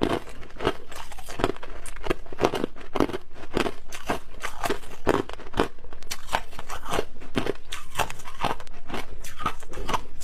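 Clear ice chunks being bitten and chewed close to the microphone: a steady run of sharp, rapid crunches, about three a second.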